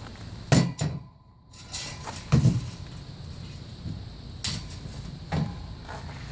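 Tractor ramps being handled and set down: a series of hard knocks and thuds, the loudest about half a second in and again about two and a half seconds in.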